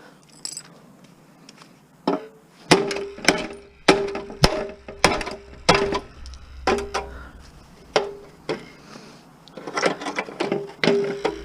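Hammer blows knocking at a pressed-in part on a Toro self-propelled lawn mower being stripped for scrap. About a dozen sharp strikes, roughly two a second, start about two seconds in, each leaving a brief ringing note.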